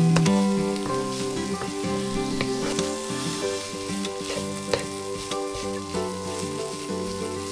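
Onion, carrot and tomato paste sizzling in a non-stick frying pan while a wooden spatula stirs them, knocking and scraping against the pan now and then. Instrumental background music plays underneath.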